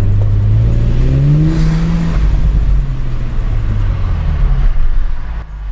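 Audi S5 engine accelerating under load, its pitch rising over the first two seconds, then holding and easing off, with the sound dropping away just before the end.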